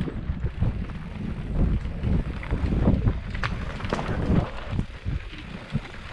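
Wind buffeting the microphone as a steady low rumble, with scattered knocks and rattles.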